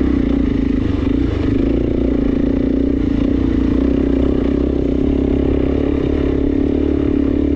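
Suzuki DRZ400S single-cylinder four-stroke dirt bike engine running at a steady, even pitch, with some rattle from the bike.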